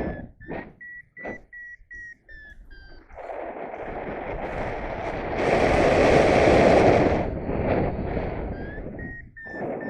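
Paragliding variometer beeping in a quick series of short high beeps, the sign of the glider climbing in lift. About three seconds in, a rush of wind on the microphone takes over, loudest around six to seven seconds in, and the beeps return near the end.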